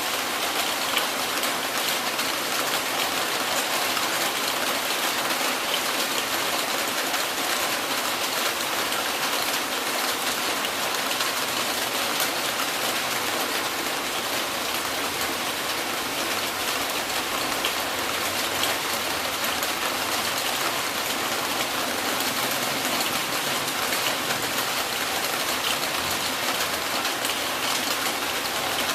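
Heavy rain falling steadily, a dense patter of drops on surfaces with no thunder.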